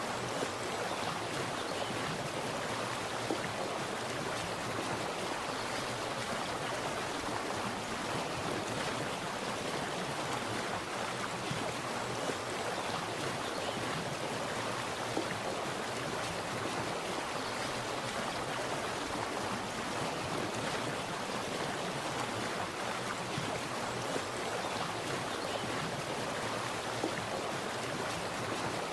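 Water splashing and running steadily, a continuous even rush with small splashes here and there.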